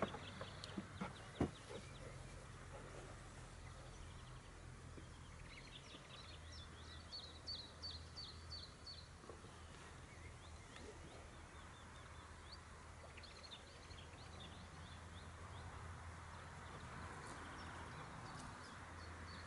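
A small songbird sings runs of short, high, repeated notes, about four a second, a few seconds in and again near the end, over a steady low hum. A couple of sharp knocks in the first second and a half are the loudest sounds.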